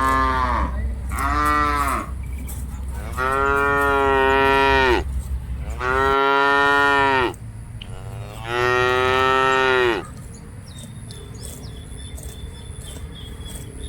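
Cattle mooing: two short moos, then three long drawn-out ones about a second and a half each, the last ending about ten seconds in.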